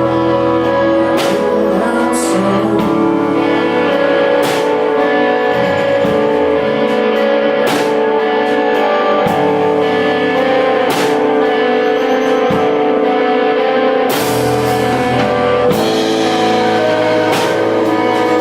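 A rock band playing live: sustained guitar chords over bass and drum kit, with cymbal crashes about every three seconds.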